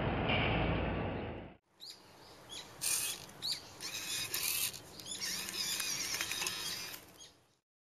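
Small birds chirping in short high calls over outdoor ambience, with a few brief rustling patches, fading out near the end. Before that, a loud steady rushing noise cuts off abruptly about a second and a half in.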